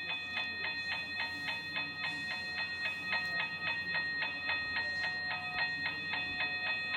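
Toy railroad crossing gate's battery-driven mechanical bell ringing rapidly, about three strikes a second, each strike ringing on into the next.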